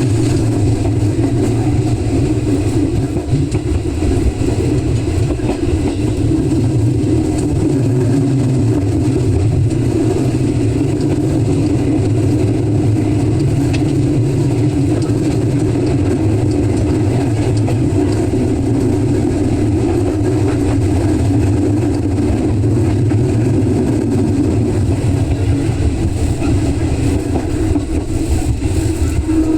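Electric commuter train running on the rails: a steady rumble of wheels and running gear that holds even throughout.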